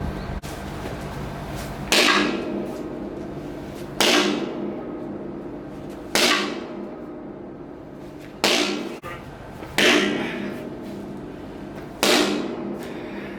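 A large wooden mallet striking hard: six heavy blows at roughly two-second intervals, each ringing out briefly.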